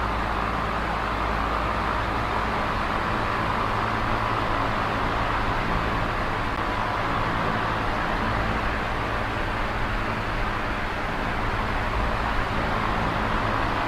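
Small oscillating electric fan running steadily: an even rush of air with a faint low motor hum beneath it, easing slightly about eleven seconds in.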